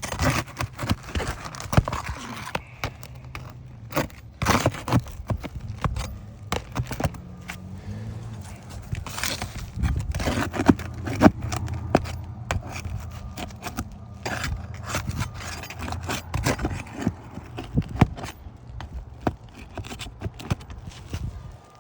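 Asphalt roof shingles being pried and unsealed by hand: irregular knocks, scrapes and crackles as the shingle is worked loose from its seal strip, over a steady low hum.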